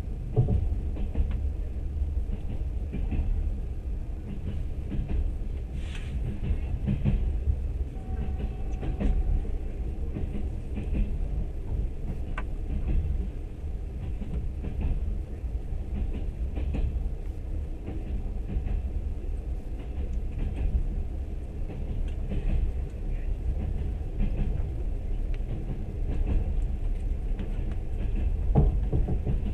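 Train running along the track, heard from inside the carriage: a steady low rumble of wheels on rails with scattered short clicks and knocks.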